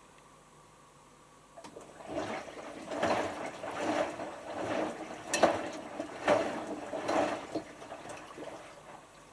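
Hotpoint HF8B593 washing machine drum turning during the rinse, water and laundry sloshing in surges about once a second. It starts about a second and a half in and dies away near the end.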